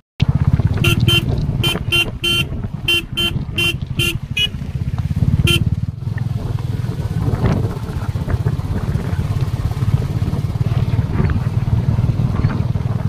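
Royal Enfield motorcycle engine running steadily with a low, even pulse, while its horn is tapped about a dozen times in quick, uneven short toots during the first half.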